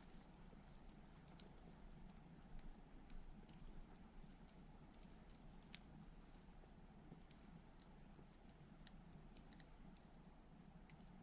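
Wood campfire crackling softly: scattered, irregular small pops and snaps over a faint steady low background.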